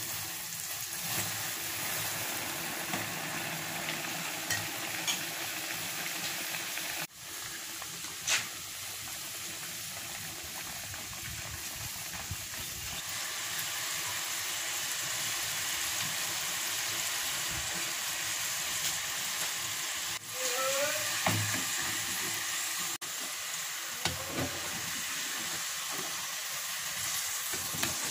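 Cornstarch-coated potato fries deep-frying in hot oil in a small pot, on their second fry for crispness. It is a steady sizzle that starts suddenly as the batch drops into the oil.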